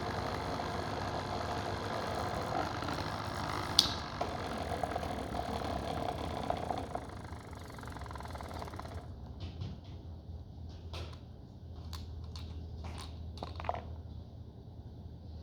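Small electric motor running off a variac with a steady whine and hum and a sharp click about four seconds in. The whine stops abruptly about nine seconds in, leaving a low hum and a few light clicks and knocks of parts being handled.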